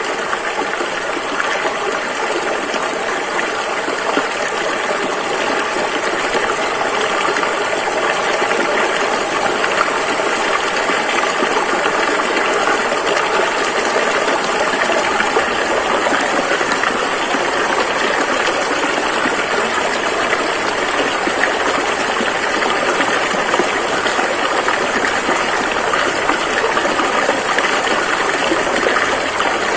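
Rushing river water flowing steadily, an even, unbroken rush.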